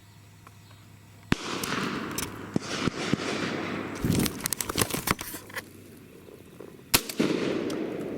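Two shotgun shots, about five and a half seconds apart, with rustling handling noise and a flurry of clicks between them.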